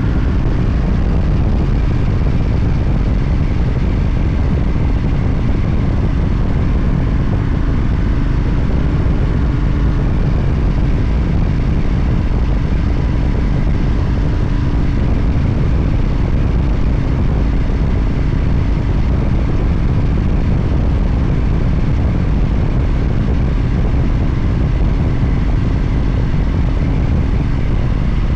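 Motorcycle running steadily at road speed, its engine drone mixed with heavy wind rush on the microphone.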